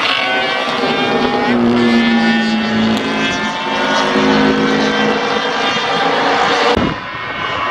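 Vintage racing motorcycles from before 1972 running past on the track, several engines heard at once, their pitches falling and overlapping. The sound drops and changes abruptly about seven seconds in.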